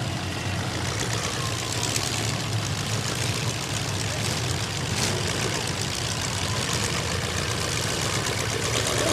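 Demolition derby cars' engines idling, a steady low rumble.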